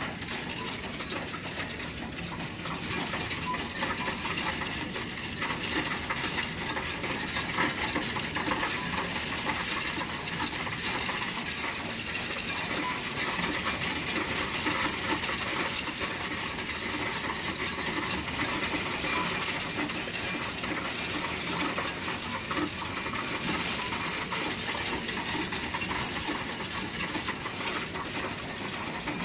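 Coinstar coin-counting machine taking in a jar of loose change: a continuous jingling clatter of many coins tumbling through the machine as they are sorted and counted.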